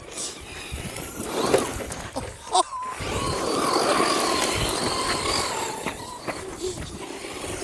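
Electric motor of a battery-powered RC truck whining steadily for a few seconds from about three seconds in, over the rustle of its tyres on dirt and sand, with a sharp click just before the whine.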